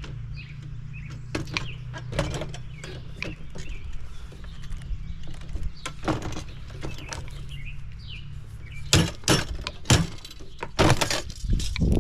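A run of knocks, clanks and clicks as tools work a copper fitting loose from a scrap dishwasher, with the loudest strikes bunched together near the end.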